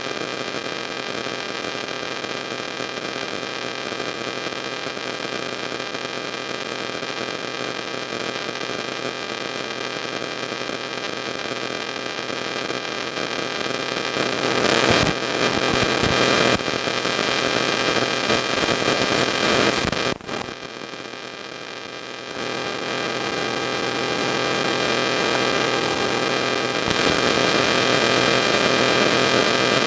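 Steady electrical hum and static hiss with no speech, growing louder about halfway through, dropping briefly, then rising again.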